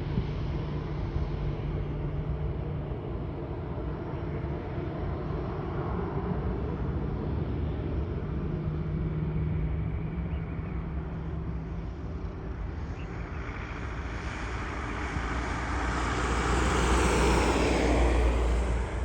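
Airbus A319 jet engines running, a steady hum and rush that swells to its loudest over the last few seconds, with a falling high whine, then drops off abruptly at the very end.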